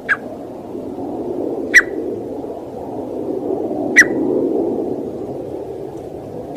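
Partridge (teetar) giving short, sharp single call notes, three of them about two seconds apart, over a steady low background noise.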